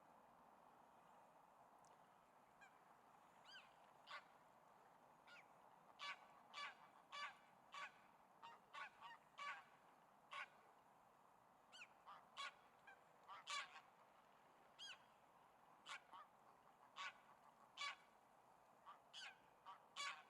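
Birds calling: many short calls coming irregularly one after another, beginning about two seconds in, over a faint steady hiss.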